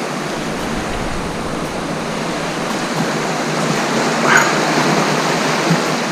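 Steady rushing wash of ocean surf on the shoreline. About four seconds in comes one short, high-pitched ring.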